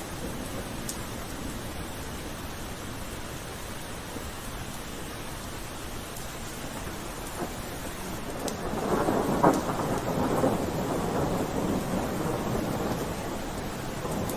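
Steady rain falling, with a roll of thunder swelling up a little past halfway, a sharp crack at its peak, then rumbling away.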